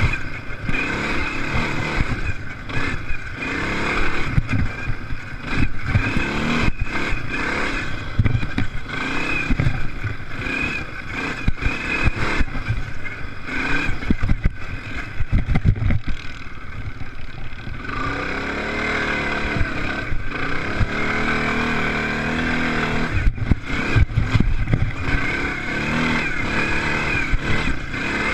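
Motocross race engines revving up and down as machines race past, the pitch rising and falling over and over, with a steadier engine note for a few seconds past the middle.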